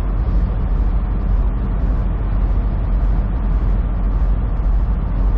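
Semi truck on the move, heard from inside the cab: a steady low drone of engine and road noise.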